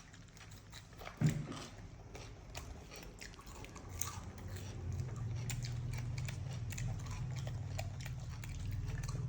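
Baby monkey eating vegetables and rice: scattered small clicks of biting and chewing, with one louder knock about a second in. A low steady hum runs underneath from about halfway.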